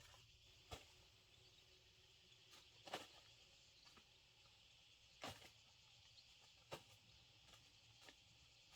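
Near silence: a faint steady hiss with a few soft clicks or snaps, about four spread over several seconds.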